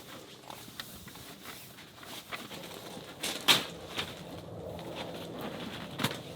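Scattered knocks and clicks of camping gear being handled during camp setup, the loudest about three and a half seconds in and another sharp knock near six seconds.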